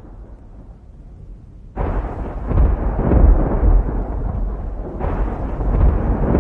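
Deep rumbling from the Taal Volcano eruption, quieter at first, then starting loud and suddenly about two seconds in, with another sudden surge about five seconds in.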